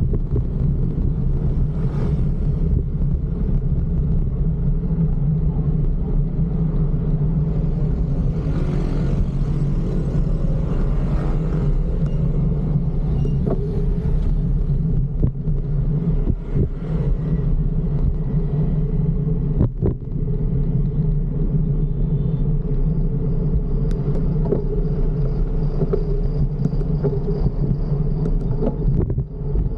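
Steady low rumble of wind and road noise from a fixed-gear bicycle ride among traffic, with a stretch of louder hiss about nine to twelve seconds in.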